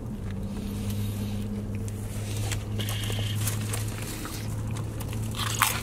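Car engine idling, a steady low hum heard inside the cabin, with a few small clicks near the end.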